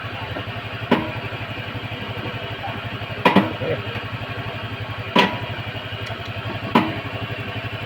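Motorcycle engine idling with an even low putter, broken by four short sharp clacks spread through it.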